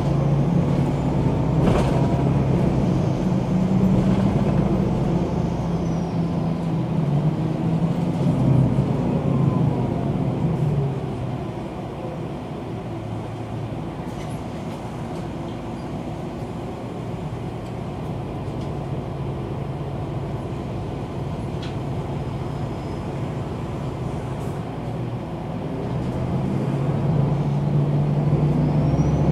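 MAN NG 313 articulated city bus's diesel engine running with a steady drone. It eases to a quieter run about eleven seconds in, then grows louder again near the end.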